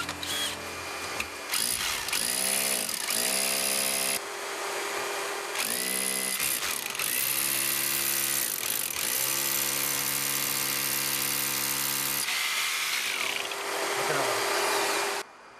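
Power drill boring a hole through a house wall, its motor whine rising and falling in short runs, then holding steady for several seconds over a rough grinding hiss as the bit cuts through.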